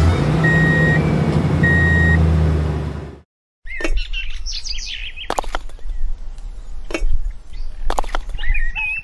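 A steady low hum with two long electronic beeps, which cuts off abruptly about three seconds in. After a brief silence come bird chirps and a few sharp knocks.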